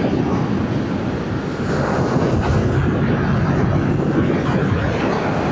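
Wind rushing over a rider's helmet microphone at road speed, with the Yamaha MT-07's parallel-twin engine running steadily underneath.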